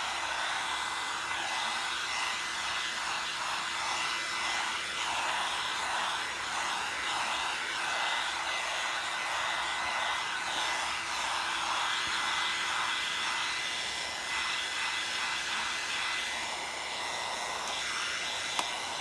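Hair dryer running steadily: a constant motor hum under a rush of blown air that swells and fades a little as it is moved about. A single brief click near the end.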